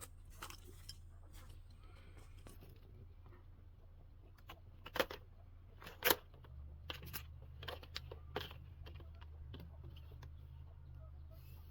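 Scattered sharp clicks and knocks, two louder ones around the middle followed by a quick run of smaller ones, over a low steady hum.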